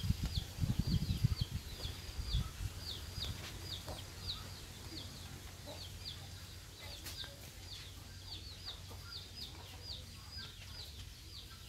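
A bird calling over and over outdoors: short, high chirps repeating about twice a second. Low thumps and rumbles sit under the first couple of seconds.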